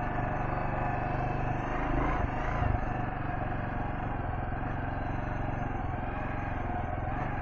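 Kawasaki KLR650's single-cylinder engine idling steadily.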